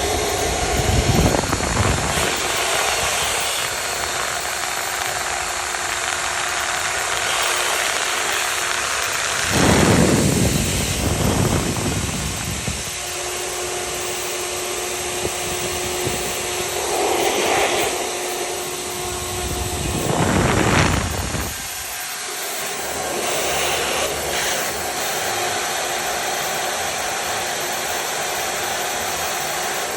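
CNC router spindle running while milling wood, with a steady whine and hiss. The cutting noise swells louder several times as the bit bites harder.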